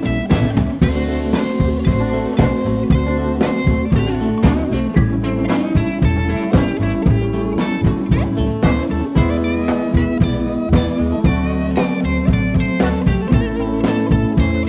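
Live blues band playing an instrumental break: a lead guitar plays bending single-note lines over bass and a steady drum beat.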